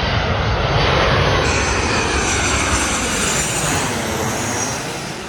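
A Boeing 737-800 airliner's CFM56 jet engines as it flies past on its landing approach. A loud rush of jet noise peaks about a second in, a high fan whine slides down in pitch, and the sound fades away near the end.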